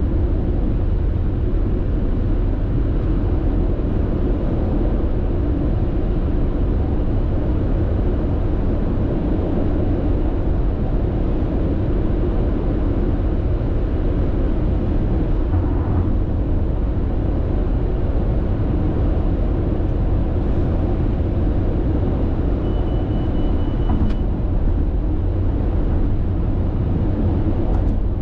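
Steady road and tyre noise of a car cruising at constant speed on an expressway, heard from inside the car, heavy in the low end and unchanging.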